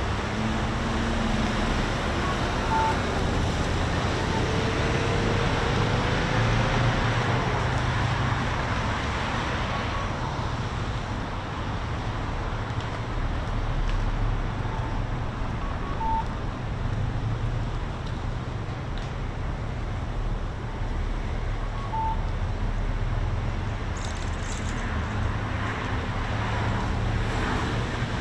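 Steady road traffic noise from surrounding city streets, a continuous wash of passing cars and trucks.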